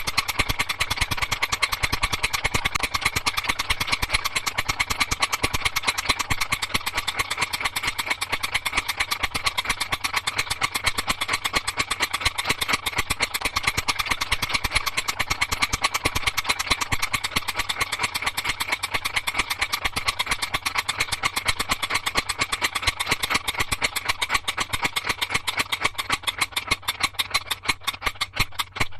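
A small motor-driven mechanism runs with a rapid, even clicking rattle. About a second before the end the clicks slow and space out as it winds down.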